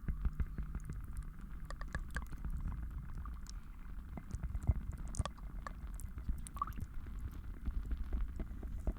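Layered ASMR trigger sounds: a steady low rumble under many small, irregular clicks and pops.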